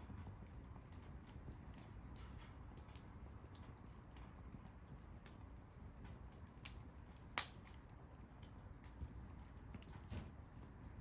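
Wood fire crackling: scattered small pops and ticks over a low steady rumble, with one sharp, louder pop about seven seconds in.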